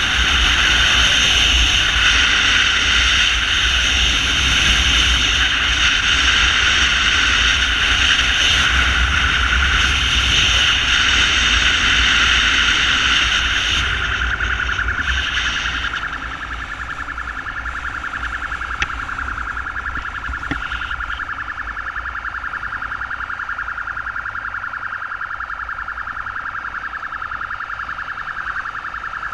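Emergency siren on a motorcycle ambulance, a high, steady-pitched tone with a fast pulse, over the rumble and wind of riding. About fifteen seconds in, the riding noise drops away and the siren carries on alone, a little quieter.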